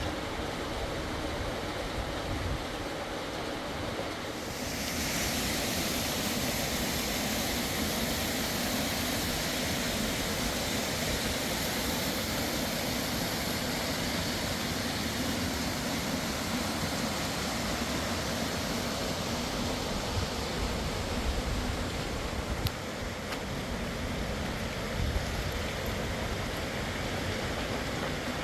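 Rushing water of a fast mountain river, a steady roar that grows brighter and a little louder about four and a half seconds in.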